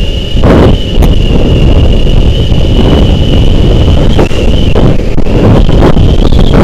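Wind buffeting the microphone of a motorcycle riding at speed, with the bike's running and road noise beneath it, and a thin steady high whine throughout.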